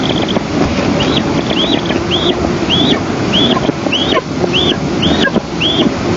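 Eastern imperial eagle nestling's food-begging calls: a run of short, high, arched chirps, about one every half second, over steady wind noise on the microphone.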